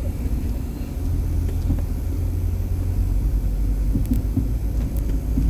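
Car driven slowly on an unpaved mountain road, heard from inside the cabin: a steady low rumble of engine and tyres, with a few faint knocks about four and five seconds in.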